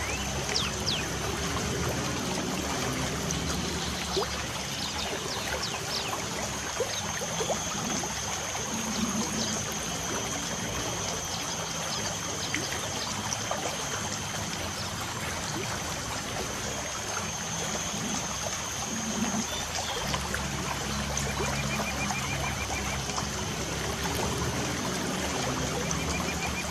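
Light rain falling with water trickling, and birds chirping in short high notes over it. A thin, steady high note holds through the middle stretch, and a quick run of ticks sounds near the end.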